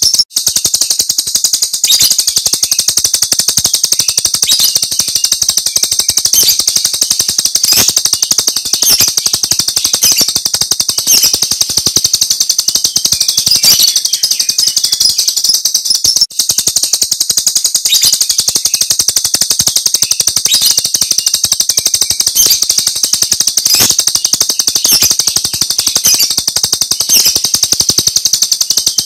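Jalak Rio bird calling nonstop in a rapid, high-pitched rattling stream of 'tembakan' (shooting) calls, briefly cutting out about 16 seconds in.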